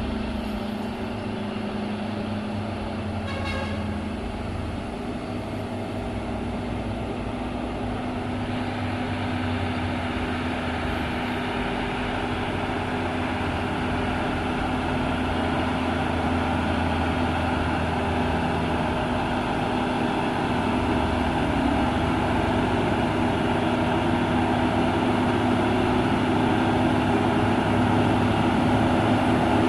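Diesel engines of heavy palm-oil tanker trucks labouring up a steep incline, a steady drone that grows gradually louder as they come closer.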